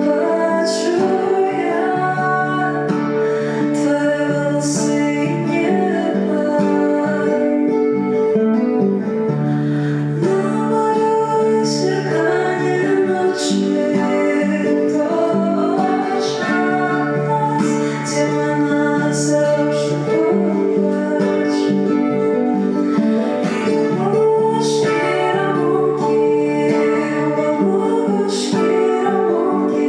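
Acoustic guitar played live under a woman singing a song, with the guitar's low notes shifting every couple of seconds.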